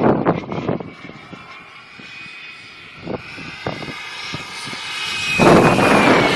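Radio-controlled model F-16 jet flying, its engine a steady high whine that drops in pitch near the end as it passes. Wind buffets the microphone at the start and again from about two-thirds of the way through.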